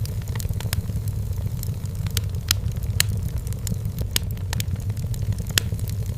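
Firewood burning in a fireplace, crackling with irregular sharp pops over a steady low rumble; a few pops stand out louder than the rest.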